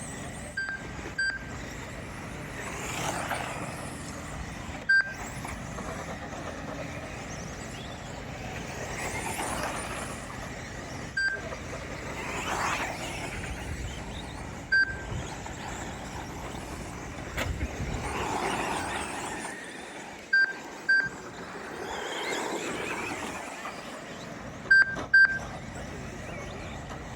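Electric 2WD short course RC trucks racing, their motors whining up and falling away in pitch as they pass. Short high beeps from the lap-timing system sound as trucks cross the timing line, several in quick pairs.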